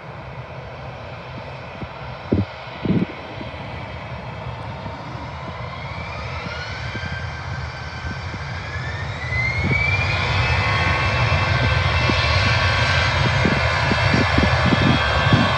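Airbus A320 jet engines spooling up to takeoff power. A whine rises in pitch for several seconds and then holds steady while the overall rumble grows louder. A few dull knocks come near the start.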